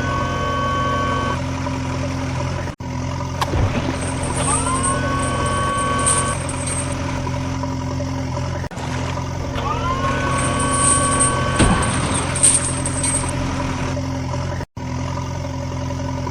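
Heavy vehicle engine running steadily, with a two-tone whine that rises and then holds, repeating three times about six seconds apart: looped engine sound effects for a cartoon JCB and dumper truck.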